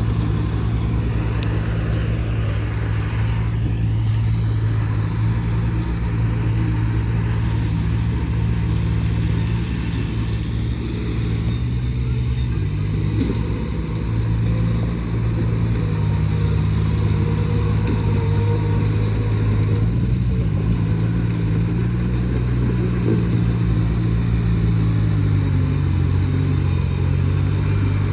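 Diesel engine of heavy earthmoving machinery (bulldozer or dump truck) running steadily under work, its engine speed changing about halfway through and again near the end.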